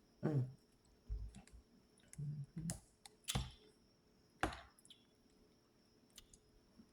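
Close-miked eating noises: scattered mouth clicks and smacks from chewing, with a couple of short low hums.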